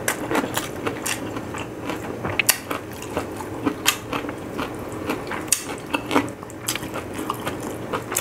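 A man chewing a mouthful of rice close to the microphone, with irregular wet smacking clicks from his mouth.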